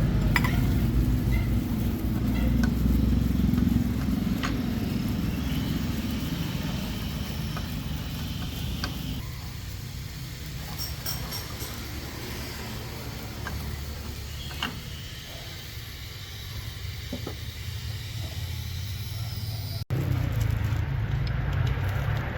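Low, steady engine rumble that weakens after about nine seconds and comes back louder near the end, with a few scattered small metallic clicks.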